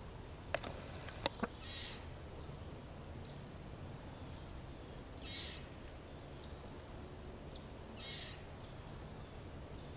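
A bird in the surrounding woods giving a short harsh high call about every three seconds, with fainter brief high chirps in between. A few sharp clicks or snaps come in the first second and a half.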